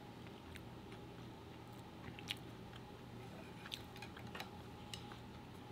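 Quiet chewing of sushi rolls, with a few faint, scattered small clicks.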